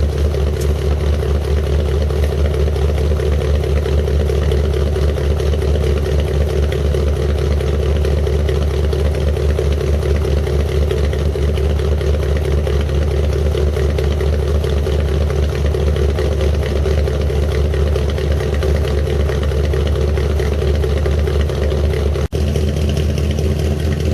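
1979 Chevrolet Caprice's 305 small-block V8 running steadily at idle, on its first run after sitting two years.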